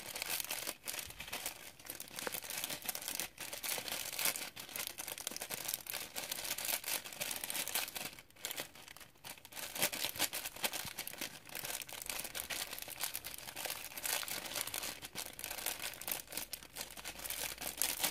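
Plastic packet of small foam beads crinkling as it is shaken and squeezed to get the beads out, with a dense run of fine crackles and brief pauses.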